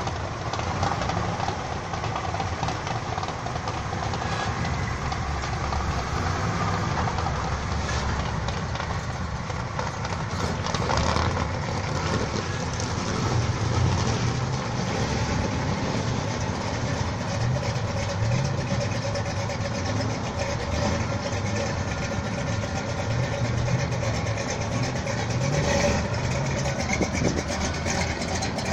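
Classic cars' engines idling and moving off slowly across a parking lot, a steady low rumble that swells several times as cars pull past.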